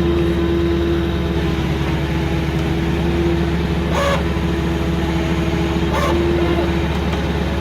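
A vehicle engine running steadily at a constant speed, with two short sharper sounds about four and six seconds in.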